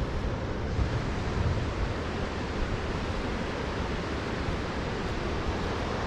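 Wind buffeting the microphone in a steady rumbling rush, with stronger gusts about a second in, over the wash of surf.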